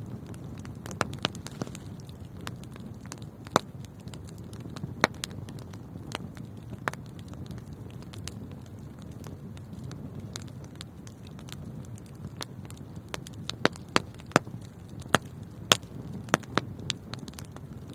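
Wood fire burning in a fireplace, with a steady low rumble and irregular sharp crackles and pops, which come thickest in a cluster near the end.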